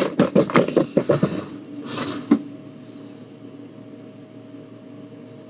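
A quick clatter of hard knocks and rattles, like bottles and jars being moved about in a fridge, lasting about a second and a half. It is followed by a short rustle and one more sharp knock, then only a steady low hum.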